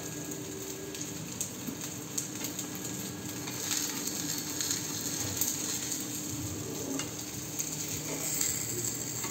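Rice-batter chilla frying in oil in a pan, a steady sizzle, with light scrapes and taps of a metal spatula against the pan.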